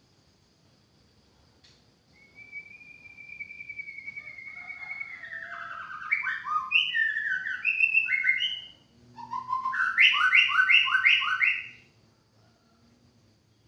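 White-rumped shama singing: a long whistled note that slowly falls in pitch, then a run of varied fluting notes, and after a brief pause a quick phrase of double notes repeated about five times.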